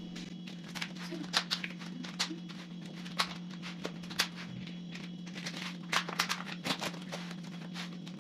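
Plastic food containers and wrapping being handled to cover meat portions: irregular sharp clicks and crinkles, over a steady low hum.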